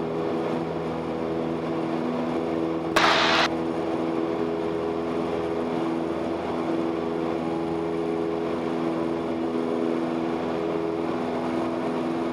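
Cessna 172S's four-cylinder Lycoming engine and propeller running steadily at full takeoff power in the climb just after liftoff. About three seconds in there is a brief, loud burst of hiss.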